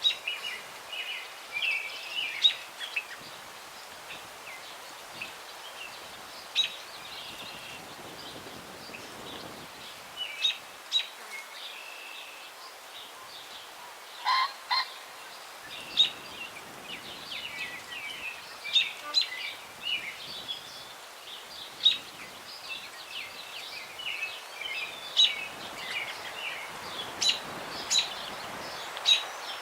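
Several birds chirping and singing over a steady breeze through tree branches. About halfway through, a louder, lower two-note call sounds.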